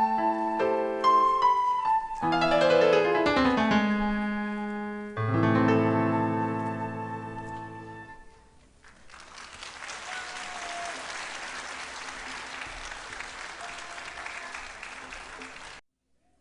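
A keyboard piece of struck, decaying notes ends with a quick descending run and a final low chord that rings out, then the audience applauds for several seconds before the sound cuts off abruptly near the end.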